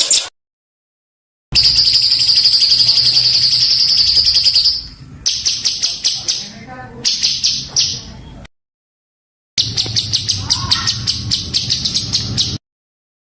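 Songbird singing in rough, very dense rapid-fire bursts: fast runs of repeated high notes, several a second, packed tightly together. It comes in separate spliced takes, with a dead-silent break about a second in, another near two-thirds of the way, and one near the end.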